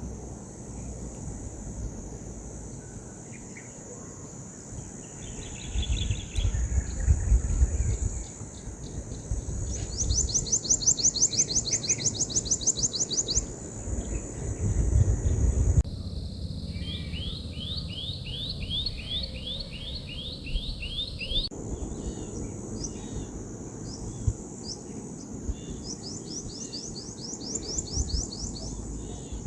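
Outdoor nature ambience: a steady high insect drone, with birds giving rapid runs of repeated chirps, about seven notes a second, a little before the middle, again through the middle and near the end. Wind rumbles on the microphone underneath.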